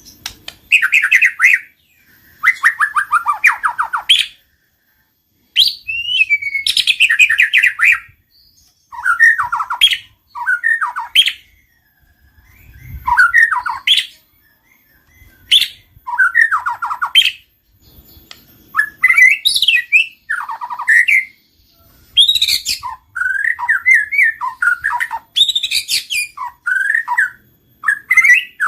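White-rumped shama (murai batu) singing loud, varied phrases of quick whistled notes and fast trills that sweep up and down, each phrase lasting a second or two with short pauses between.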